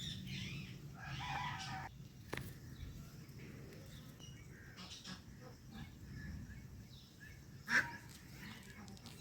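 Indian ringneck and Alexandrine parrots calling with short chirps and squawks scattered through, and one sharp, loud call near the end.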